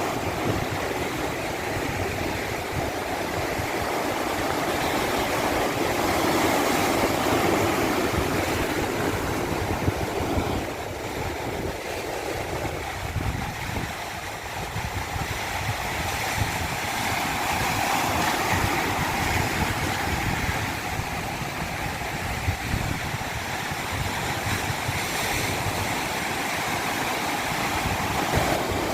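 Steady rushing of moving water, a dense even wash of noise; about 13 seconds in, its deeper rumble thins out.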